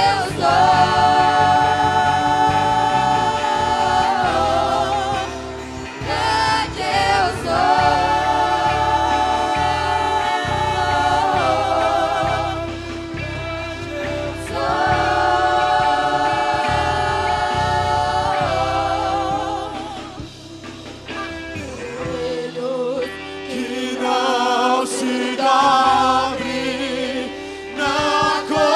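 Church choir singing a gospel worship song over instrumental accompaniment, holding long notes with vibrato. The low accompaniment drops away for a few seconds past the twenty-second mark, then the voices swell again.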